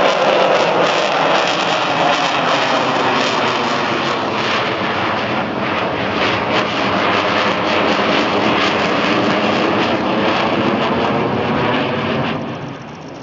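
Avro Vulcan bomber's four Rolls-Royce Olympus turbojets roaring loudly in flight, the roar easing away about twelve and a half seconds in.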